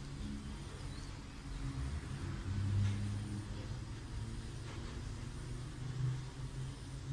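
Low, steady background rumble that swells briefly a couple of times, with a few faint ticks over it.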